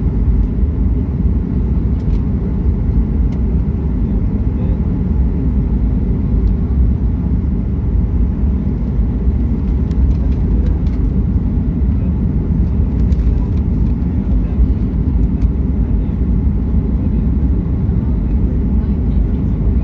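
Jet airliner cabin noise on the approach to landing: a steady, loud low rumble of the engines and rushing air, with a few faint clicks.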